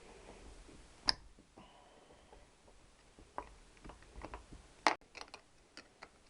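Irregular sharp clicks and knocks of hand tools and small steel parts being handled during the stripdown of a Triumph T120R engine's case. The two loudest come about a second in and near the five-second mark, with a scatter of lighter taps between them.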